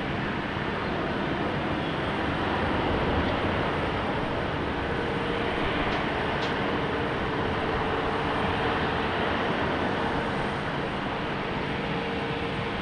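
Passenger jet engines running: a steady rushing noise with a faint steady hum, swelling slightly about three seconds in. Two short high ticks come a little past halfway.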